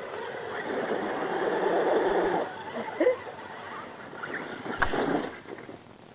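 A mud truck churning through mud and water: a rushing, splashing noise that builds over the first two seconds and drops off, then a brief whine and a sharp knock.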